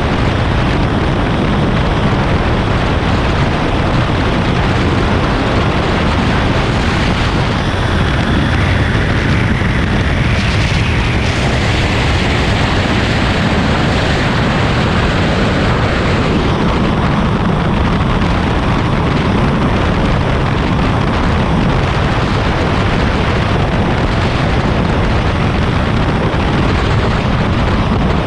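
Steady, heavy wind noise roaring over the microphone of a Triumph Speed Triple 1200 RS motorcycle riding at speed, with the bike's running mostly buried under it and a faint rising whine about ten seconds in.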